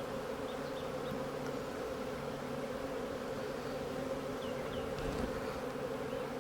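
A colony of honeybees on an open hive, humming steadily in a dense, even buzz. A few faint short chirps sound high above it.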